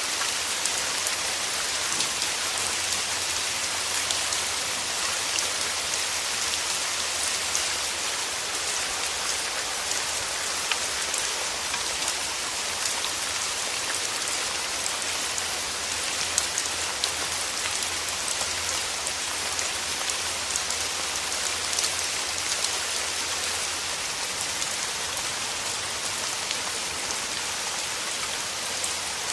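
Steady rain falling: a dense, even hiss of drops with many small, sharper drop ticks through it. A faint low rumble lies underneath for most of it and fades out near the end.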